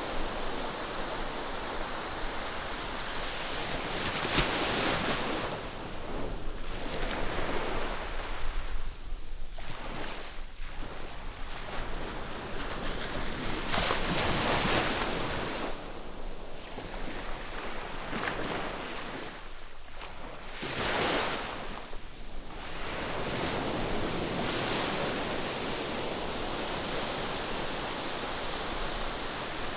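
Ocean surf breaking on the shore: waves rush in and wash back in slow surges, one every several seconds.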